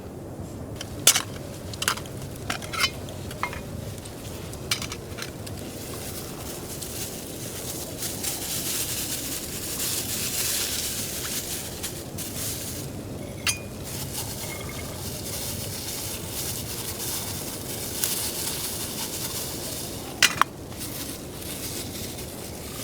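A metal utensil clinking and scraping against a pan, a dozen or so sharp clinks, over a steady sizzle of food frying that grows louder for a few seconds in the middle.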